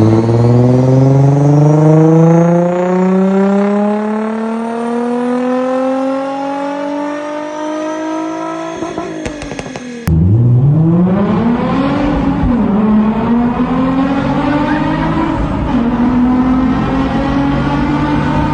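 Nissan 350Z's 3.5-litre V6 through an aftermarket 3.5-inch stainless steel exhaust, accelerating with a steadily rising pitch for several seconds as it slowly fades. About ten seconds in the sound cuts abruptly, then the engine revs up again from low and holds a steady note.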